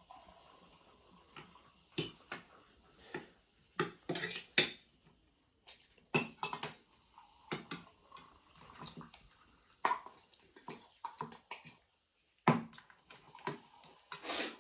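Close-up eating sounds: irregular wet chewing and mouth clicks, with light clinks of utensils against dishes.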